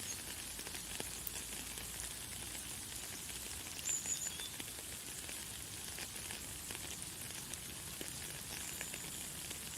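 Light, fine rain falling: a steady high hiss scattered with many small drop ticks. A bird gives a short high chirp about four seconds in and a thinner one near the end.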